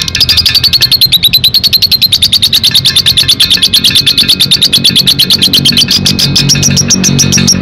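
Lovebird ngekek: one long unbroken run of rapid, high chattering notes, about ten a second, over background music.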